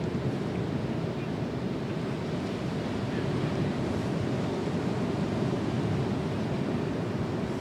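Ocean surf breaking on the beach as a steady wash of waves, from the swell of an approaching typhoon, with wind on the microphone.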